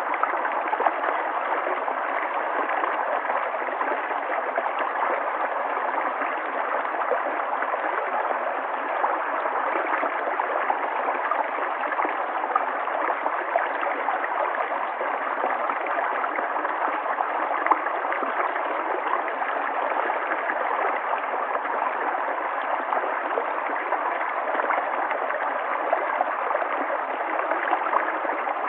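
River water flowing: a steady rush with many small splashes throughout.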